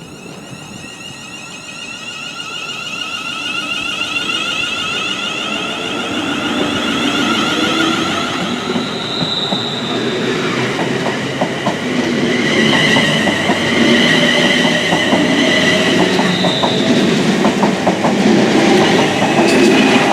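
A train coming closer and growing louder over the first several seconds, with several steady high squealing tones from the wheels and the clicking of wheels over rail joints.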